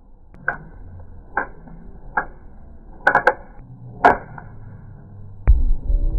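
Sharp plastic clicks from a toy launcher being worked and fired, about six over four seconds, two of them close together. Then a loud low rumble starts near the end.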